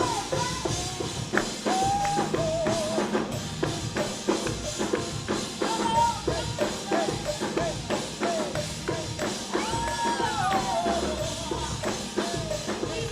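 Live gospel worship music: a drum kit and tambourine keep a steady beat under a melodic line that glides and wavers in pitch.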